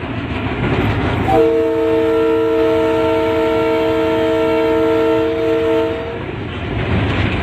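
Diesel locomotive air horn sounding one long, steady multi-note blast that starts about a second and a half in and stops about a second before the end, over the constant rumble of a train running at speed.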